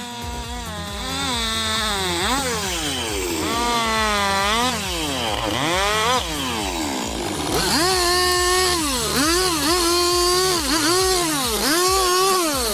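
Chainsaw engine revving up and down while cutting wood. Its pitch swings widely, and in the second half it sags and recovers about once a second as the chain takes load.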